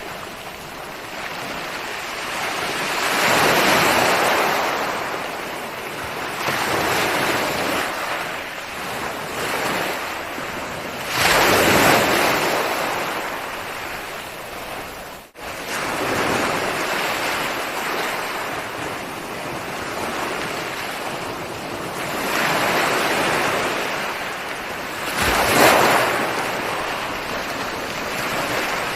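Ocean waves breaking and washing on the shore, a swell of surf every three to five seconds, with the biggest breakers about twelve seconds in and near the end. The sound drops out for a split second about halfway through.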